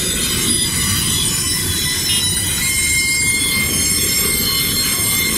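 Freight train wagons rolling slowly past close by: a steady low rumble of steel wheels on the rails with a continuous high-pitched squeal of wheels against rail.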